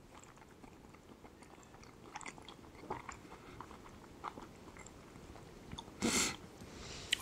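A man chewing a mouthful of rehydrated freeze-dried beef and pasta, with faint clicks of a spoon in the food pouch and a brief louder noise about six seconds in.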